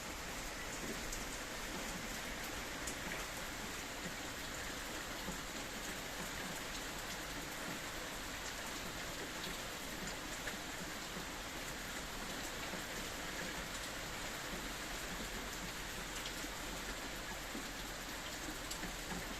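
Steady rain falling: an even hiss with scattered ticks of individual drops striking a surface.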